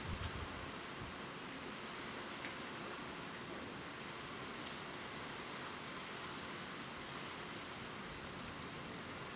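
Gentle steady rain falling on leaves, a soft even hiss with single drops ticking now and then.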